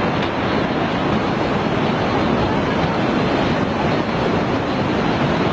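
Loud, steady rushing of churning tsunami floodwater, with wind noise on the microphone.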